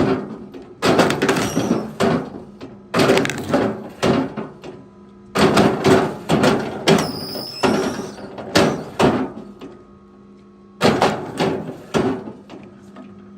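Repeated wooden knocks and clatter in six short bunches, like pieces of wood being handled and knocked together, with a faint steady hum under the middle of it and a brief high whistle about seven seconds in.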